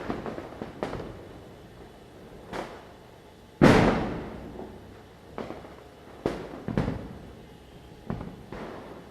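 Firecrackers going off at irregular intervals, about eight bangs in all, some near and some further off, each ringing out with an echo. The loudest comes a little past a third of the way in and dies away over about a second.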